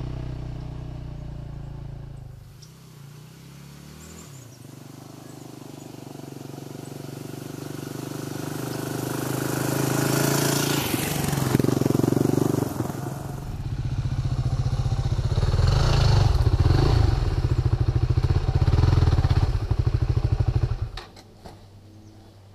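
Dirt bike engine running as the bike is ridden, quieter for a moment early on, then building up and running loud and pulsing before it cuts off suddenly near the end.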